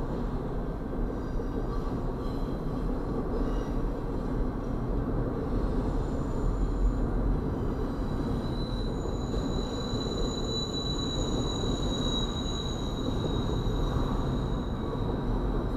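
Double-stack intermodal freight train rolling past, its well cars rumbling and clattering steadily over the rails. A thin, high-pitched wheel squeal comes in about halfway through and fades out a couple of seconds before the end.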